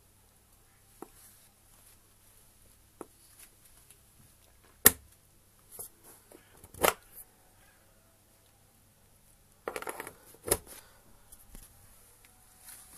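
Scattered clicks and knocks of something being handled, with three sharp knocks standing out about five, seven and ten and a half seconds in, and a brief rustle just before the last.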